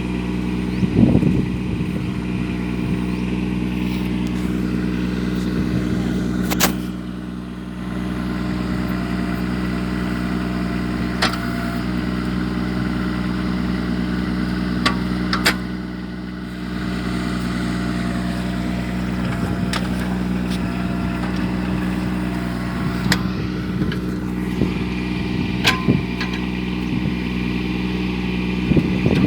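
Mini tractor engine running steadily, with a few sharp clicks and two brief dips in level, about a quarter and about halfway through.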